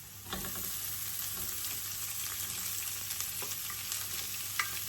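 Chopped onion going into hot oil with ginger, garlic and turmeric, the pan sizzling up about a third of a second in and frying steadily, with a few light clicks of stirring.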